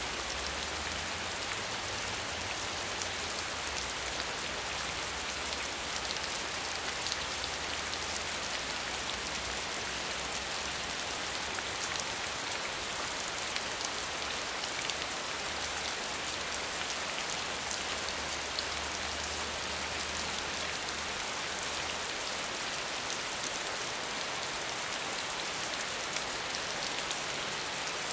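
Steady medium rainfall: an even hiss of rain with fine ticks of individual drops.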